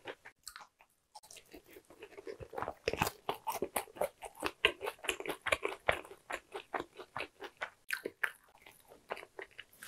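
A person chewing crunchy fried food: many quick, crisp crunches in a row, after a short pause about a second in.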